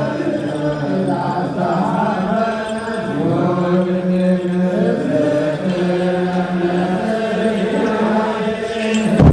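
Ethiopian Orthodox liturgical chant: voices singing slowly in long held notes that step from pitch to pitch. A sudden loud knock sounds near the end, and the chant drops away briefly after it.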